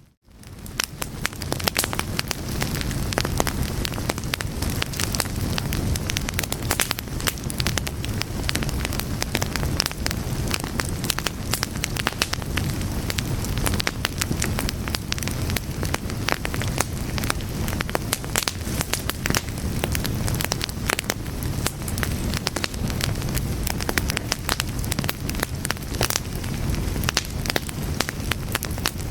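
Fire burning, with dense, irregular crackles and pops over a low, steady rush of flame. It drops out for a moment at the very start and swells back in within about a second.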